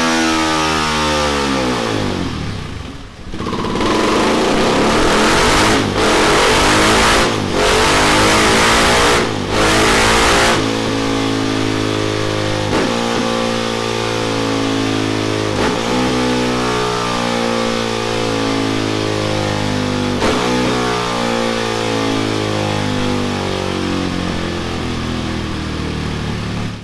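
Husqvarna Vitpilen 701's single-cylinder engine through a Delkevic 18-inch oval carbon fibre silencer. The revs fall away first, then the engine is revved hard in several bursts, each cut off briefly by the throttle. For the second half it runs at a steadier, lower speed.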